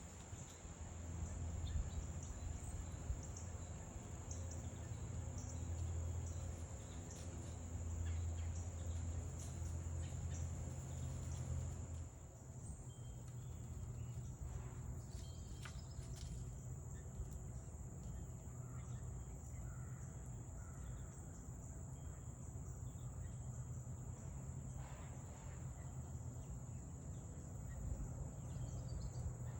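Crickets trilling steadily in a high continuous tone, with a few faint bird chirps over a low rumble that eases about twelve seconds in.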